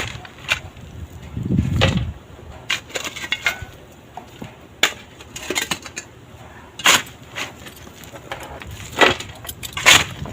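Hand tools clinking and knocking on metal during work on a car, a scattered series of about ten sharp strikes.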